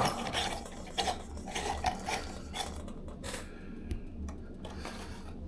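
Faint scattered clicks and rubbing of small parts being handled, over a steady low hum.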